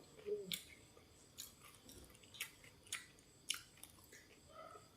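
A person chewing and crunching food close to the microphone: a string of sharp, irregular crunches, about two a second.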